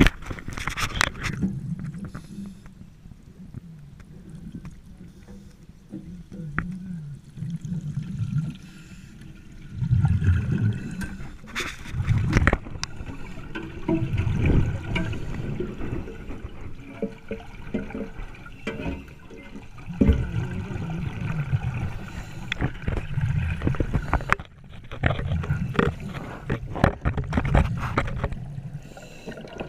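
Underwater gurgling and bubbling in a training tank, coming in low surges every few seconds, with scattered sharp clicks.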